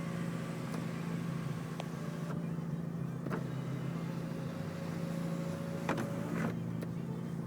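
Mazda RX-8's power sunroof motor running for about four seconds with a steady whine, over a steady low hum inside the car cabin, with a few light clicks.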